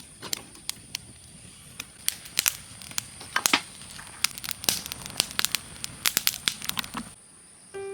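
Wood fire crackling and popping in irregular sharp snaps, several a second, with a steady high-pitched tone underneath; it cuts off near the end and music begins.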